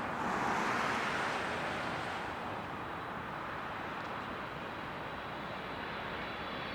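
Jet airliner engine noise fading as the aircraft moves away, settling to a steady distant rumble. A faint high engine whine comes in near the end.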